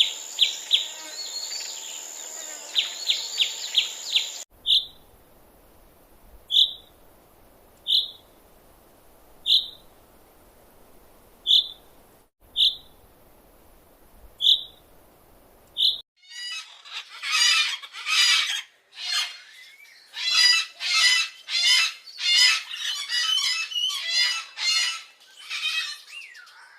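Birds chirping in three separately cut stretches. First comes a quick run of repeated chirps over a steady high tone. Then single short chirps follow about every one and a half to two seconds. Past the middle, a dense, loud chattering of many overlapping calls sets in.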